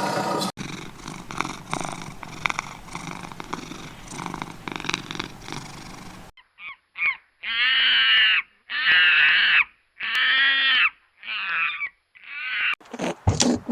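A domestic cat meowing about six times in a row, each meow drawn out and bending in pitch. Before it come several seconds of a crackly, rustling noise, and near the end a cut to short clicks.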